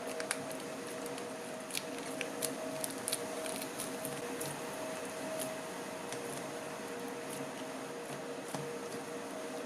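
Homemade no-glue slime being poked and squeezed, giving scattered small squishy clicks and pops over a steady electrical hum.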